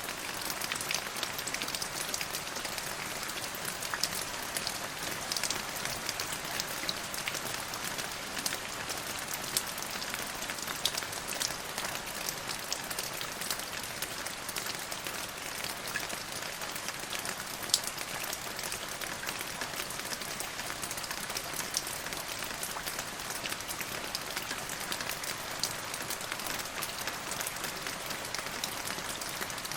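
Steady rainfall: an even hiss of rain with many small drops ticking through it.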